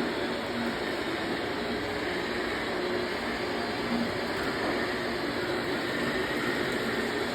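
Steady mechanical noise with a faint hum, running evenly without a break.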